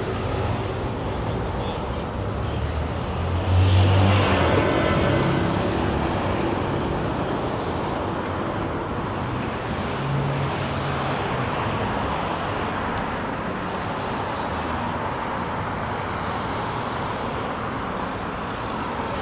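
Steady city street traffic. A motor vehicle passes close about three and a half seconds in, the loudest moment, and another engine is heard briefly around ten seconds.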